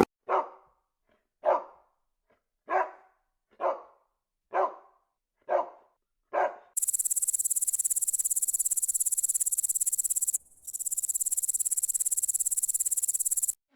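A dog barking seven times, about one bark a second. Then a high, fast-pulsing insect trill, typical of a grasshopper, runs for about seven seconds with one brief break midway.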